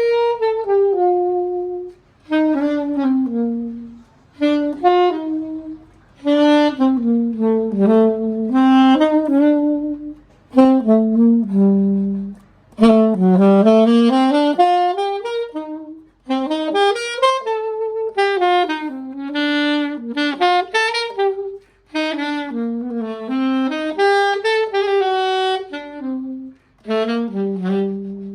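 Conn alto saxophone playing a solo melody in phrases of a few seconds each, with short breath pauses between them.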